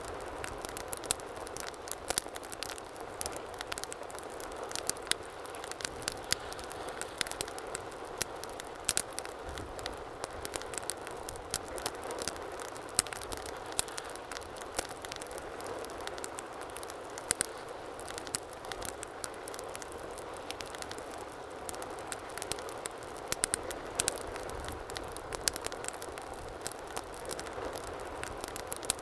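Wood fire burning in a fireplace: a steady low hiss and rush of flames with frequent sharp crackles and pops scattered irregularly throughout.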